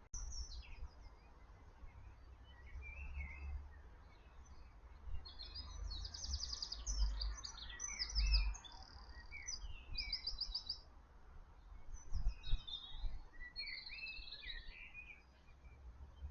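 Garden birds chirping and singing: a jumble of short chirps, rapid trills and whistles, busiest from about five to eleven seconds in and again near the end, over a low rumble.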